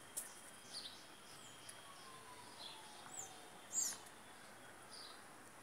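Faint birds chirping: scattered short, high calls, the loudest about four seconds in.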